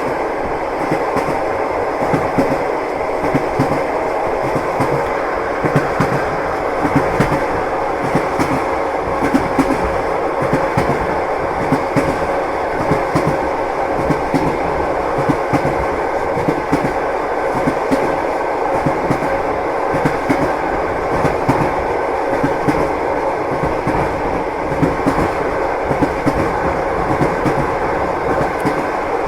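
Passenger train wheels clattering over the rail joints at running speed, heard from inside the carriage: a steady rumble broken by frequent sharp clicks.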